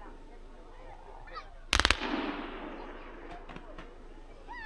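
Dominator DMX5214 Color Falling Leaves Waterfall 30 mm firework cake firing: a quick volley of sharp reports about two seconds in, trailing off in a rushing echo over the next second.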